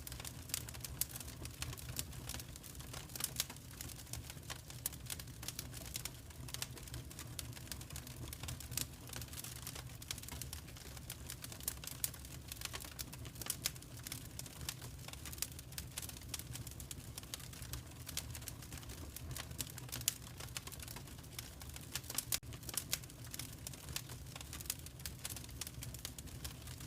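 Wood fire crackling in a fireplace: dense, irregular pops and snaps over a low, steady rumble of flame.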